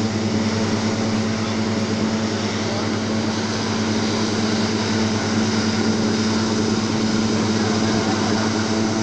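Electric fan running: a steady low motor hum under an even rush of air from the blades.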